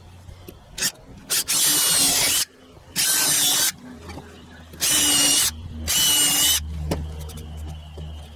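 Power drill with a countersink bit running in short bursts, about four runs of a second or less with a couple of brief blips before them, recessing screw holes in wood so the screw heads sit below the surface.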